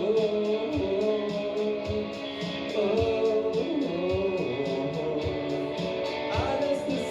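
Indie rock band playing live, with a sung lead vocal over guitars and a steady drum beat of kick drum and cymbals, picked up from the room.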